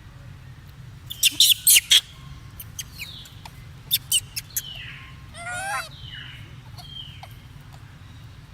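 High-pitched monkey squeaks and chirps: a quick run of sharp squeaks over the first two seconds, scattered short chirps, then a warbling call about five and a half seconds in.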